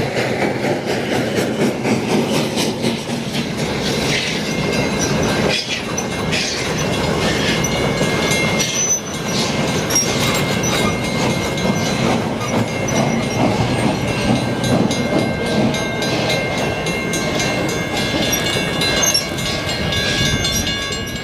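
Railroad cars rolling along the track, their wheels clicking over the rail joints. From about four seconds in, a steady high squeal rides over the rumble.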